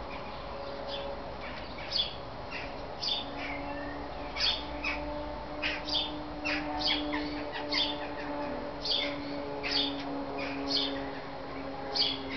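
Great tits giving repeated short, sharp chirps at an irregular pace of roughly one or two a second, over a faint steady low hum.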